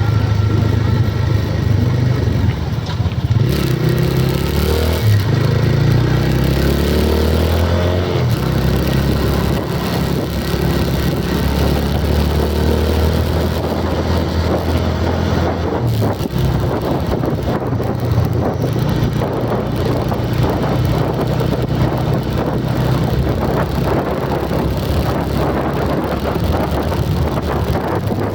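A vehicle engine running steadily with a constant low hum. Between about three and eight seconds in, a higher pitch rises and then falls away.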